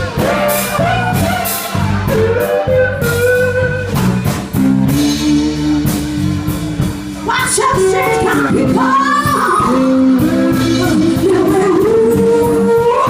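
Live blues band playing a slow blues: singing over electric guitars, bass guitar and drum kit.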